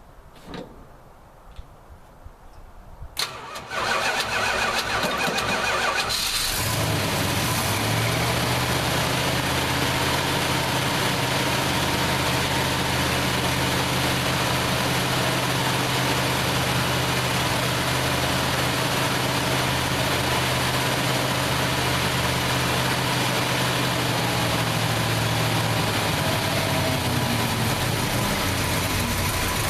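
1968 Plymouth Fury's 383 big-block V8 being cranked over by the starter for a couple of seconds, catching about six seconds in, then idling steadily while still cold.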